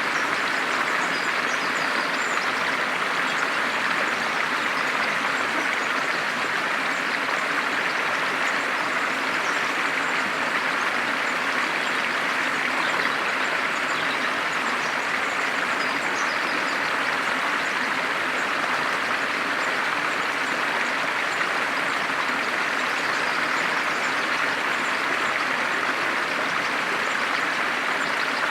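Steady rushing of flowing water, an even, unbroken sound with no change in level.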